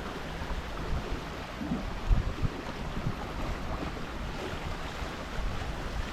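Water rushing and splashing along a Tornado catamaran's hulls under sail, with wind buffeting the action-camera microphone in a low uneven rumble. A short knock sounds about two seconds in.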